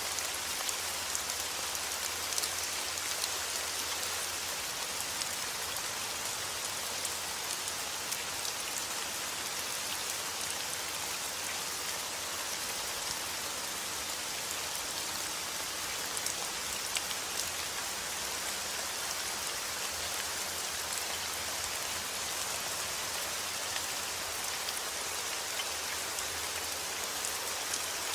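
Heavy rain falling steadily, with individual drops ticking here and there.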